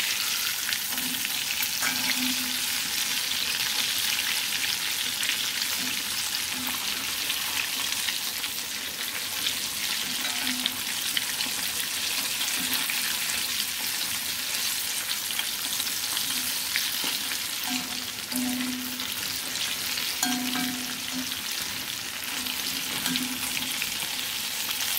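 Breaded chicken pieces deep-frying in hot sunflower oil in a wok: a steady sizzle and crackle, with a few faint clicks as a metal spider skimmer turns the pieces in the pan.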